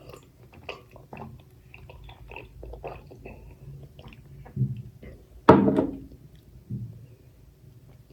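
Close-miked eating of mutton curry and rice: wet chewing, squelching and lip smacks in quick succession, with one much louder mouth sound about five and a half seconds in.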